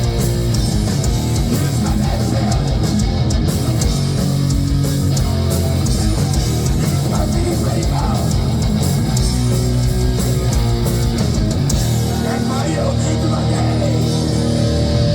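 Heavy metal band playing live and loud, with electric guitars carrying the music.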